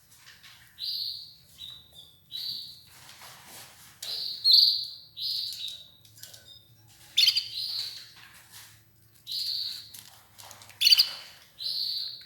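Red ivory canary chirping: a series of short, bright call notes, one every second or so.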